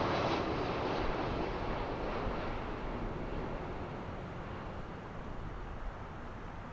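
Jet noise from a four-engined Airbus A340-300, its CFM56 turbofans heard as a broad rushing roar that fades steadily as the airliner moves away after landing.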